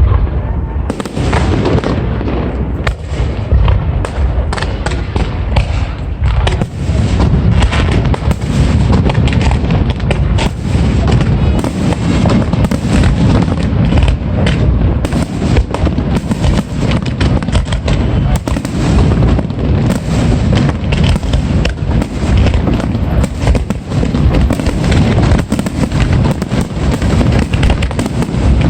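Fireworks display going off continuously: a dense run of booming bursts and crackling, heard from close by.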